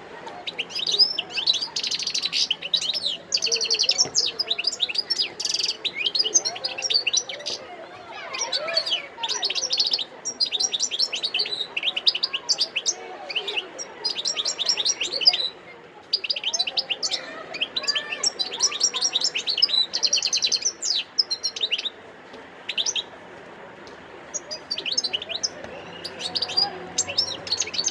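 Wild-caught European goldfinch singing: long runs of rapid twittering trills, broken by short pauses.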